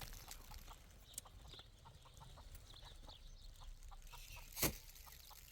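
Chickens clucking softly in short repeated notes, with a few faint high chirps and one sharp click about four and a half seconds in.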